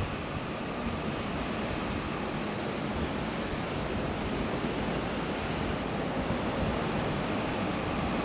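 Coupled E5 and E6 series Shinkansen train pulling slowly into the station, a steady rushing rumble that grows gradually louder as it nears the platform.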